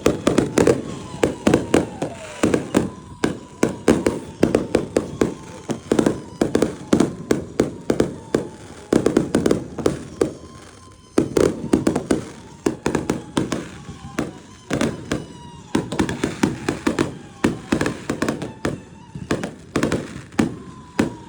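Fireworks display: a dense, continuous barrage of sharp bangs and crackles, briefly thinning about ten seconds in, with a thin whistle-like tone running through much of it.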